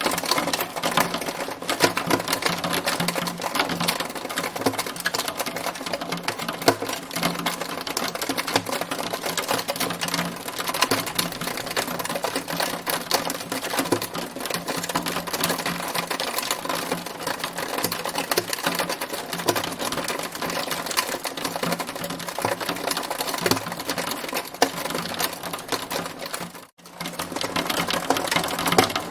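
Hailstones striking a hard surface in a dense, continuous clatter of small rapid hits. The sound drops out briefly near the end.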